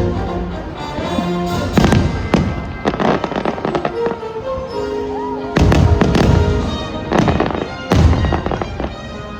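Aerial fireworks bursting in a string of sharp booms and crackles over show music.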